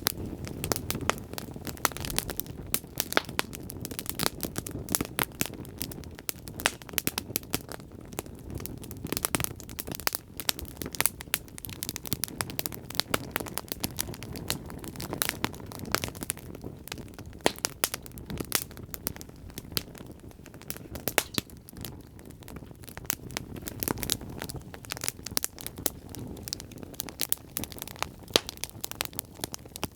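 Wood fire burning in a fireplace, crackling and popping with many irregular sharp snaps over a steady low rumble of the flames.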